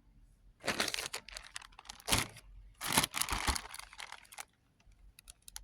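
Packaging being handled, crinkling and rustling in irregular bursts for about four seconds, followed by a few small clicks near the end.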